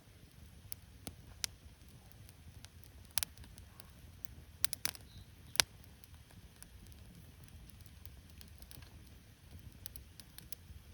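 Wood campfire crackling: irregular sharp pops and snaps, the loudest about halfway through, over a low steady rumble.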